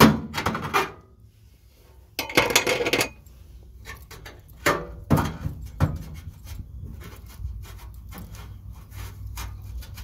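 Metallic clinks and knocks from hand work on loose underbody sheet-metal panels being riveted together to stop a rattle, with a sharp knock at the start, a short harsh burst of noise about two seconds in, then three separate knocks and lighter ticking.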